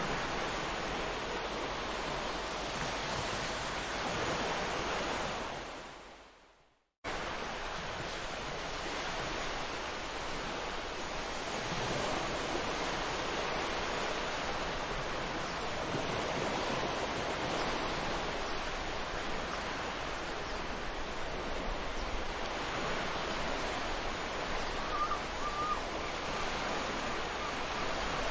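Ocean surf washing onto a beach, a steady rush of breaking waves. About six seconds in it fades out to silence, then cuts back in abruptly a moment later.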